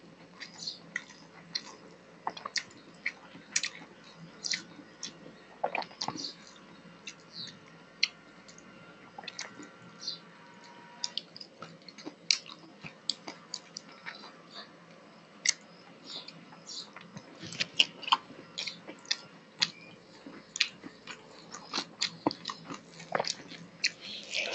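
Close-miked chewing and wet mouth smacks of a person eating rice and fish curry by hand, with irregular sharp clicks throughout and the fingers squelching through the rice on the plate.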